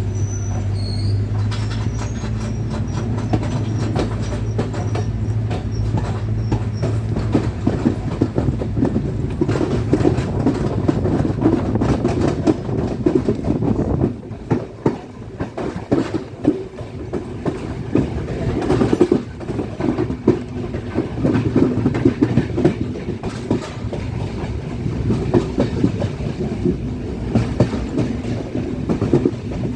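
A train running along the track, its wheels clicking and rattling over the rail joints in a dense, uneven clatter. A steady low hum drops away about seven seconds in.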